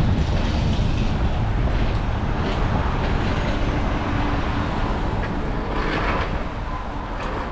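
Wind buffeting the microphone of a moving bicycle rider, a steady loud rumble, with traffic noise beneath it.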